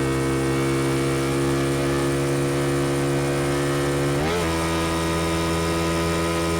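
Honda XL125V Varadero's 125 cc V-twin engine running through a BlackWidow aftermarket exhaust while riding at steady revs. About four seconds in, the engine note changes abruptly, as at a gear change.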